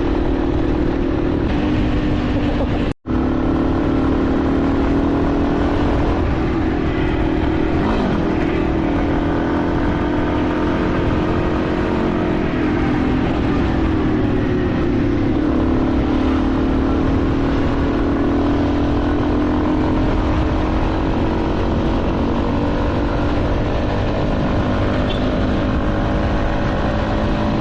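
Motorcycle engine running steadily while riding, its pitch rising and falling slowly with the throttle, over wind noise on the microphone. The sound drops out for a moment about three seconds in.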